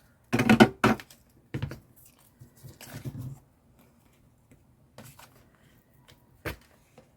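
Craft tools and paper handled on a tabletop: a cluster of sharp knocks and clatters about half a second in, a rustling scrape around three seconds, and a single sharp click near the end.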